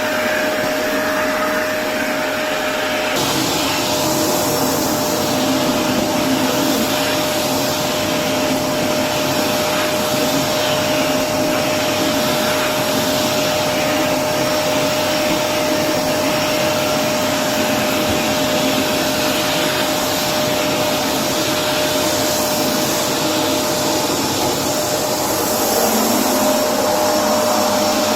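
Electrolux Precision bagless upright vacuum cleaner running steadily with a constant whine. Its sound fills out about three seconds in and shifts again near the end as it is worked.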